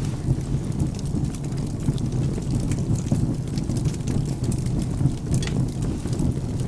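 Crackling wood fire mixed with steady rain and a continuous low rumble, with scattered sharp pops from the fire, one of the clearest about five and a half seconds in.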